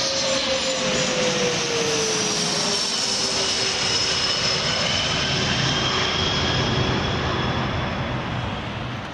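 Jet aircraft engines passing low overhead on landing approach: a loud rushing noise with an engine whine that drops in pitch about two to three seconds in as the aircraft goes by, fading near the end.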